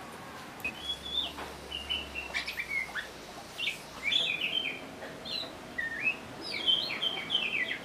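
Birds chirping and singing: many quick, high chirps and short warbled phrases, busier in the second half.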